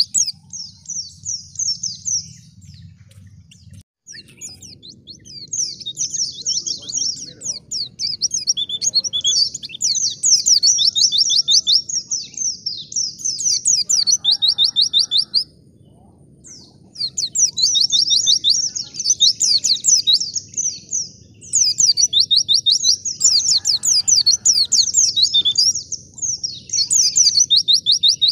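White-eye (pleci) singing a long, fast twittering song of high chirps in runs several seconds long, with brief breaks about three seconds in and about halfway through.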